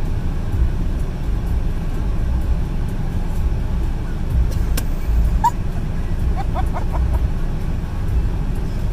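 Car engine idling, a steady low rumble heard from inside the cabin, with a sharp click about five seconds in and a few faint short high tones just after.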